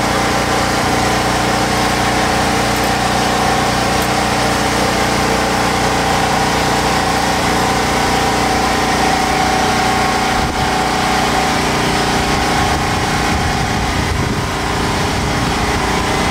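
An engine running steadily at idle: a constant, unchanging drone with a fixed whine over a low hum.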